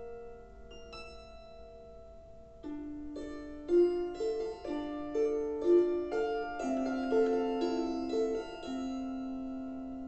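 Solo piano playing a slow lullaby. A held chord fades at the start, then a gentle melody of single notes begins about three seconds in. The phrase settles on a chord that is left to ring and fade near the end.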